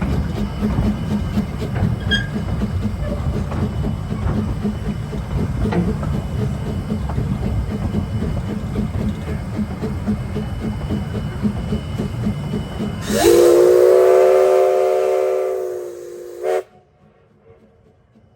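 Narrow-gauge steam train running with a steady rumble and rapid rhythmic clatter. About 13 seconds in, its steam whistle blows one long blast lasting about three seconds, then cuts off suddenly.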